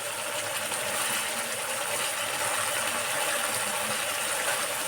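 Onions and masala sizzling steadily in hot oil in a pan, with a dry rattling crackle throughout.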